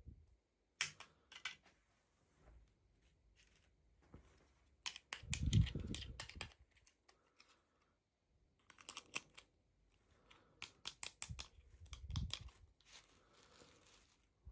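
Hands unboxing a toy: plastic packaging crinkling, tearing and clicking in several short bursts, with a few soft thumps as the pieces are handled.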